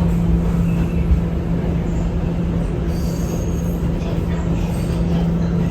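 NYC R211A subway car running between stations, heard from inside: a steady rumble of wheels on rail under a constant low hum, with a few brief, faint wheel squeals about three seconds in.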